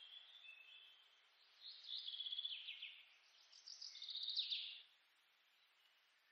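Faint birdsong: a songbird sings two quick trilled phrases, one about two seconds in and another about a second later, with a few softer chirps at the start over a low outdoor hiss.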